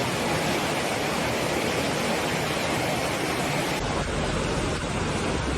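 Rushing floodwater, a steady roar of noise. About four seconds in the sound changes abruptly to a duller one with more low rumble.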